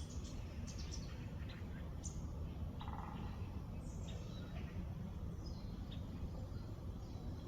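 Several small birds chirping and calling in short high notes and quick sweeps, with a brief buzzy trill about three seconds in, over a steady low rumbling background.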